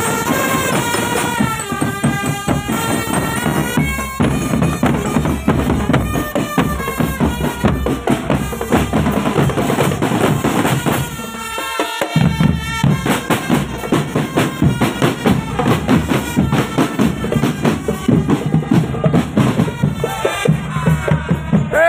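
Drum band playing on the march: massed snare and bass drums beating a steady rhythm under a melody carried by wind instruments. The drums drop out for a moment about halfway through, then come straight back in.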